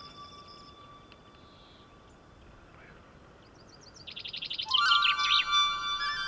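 Sustained music tones fade out, and after a quiet stretch a songbird sings a rapid high trill ending in a swooping flourish, about four seconds in. Sustained music tones come back in under the song.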